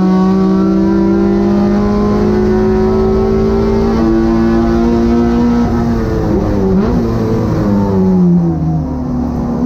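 Honda Civic race car's K24 four-cylinder engine running hard at high revs. Its pitch holds and slowly climbs, wavers about two-thirds of the way in, then drops as the revs fall near the end.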